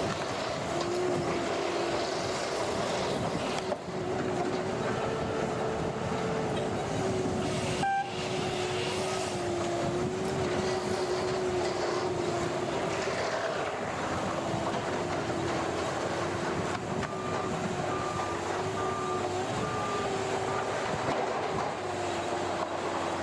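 A machine's engine running steadily, its pitch wavering slightly up and down, with a sharp click about eight seconds in.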